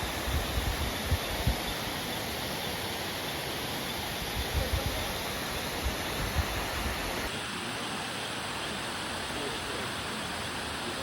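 Steady rush of falling water, as from a waterfall, with low wind thumps on the microphone in the first part. About seven seconds in the sound changes abruptly and the low rumble drops away.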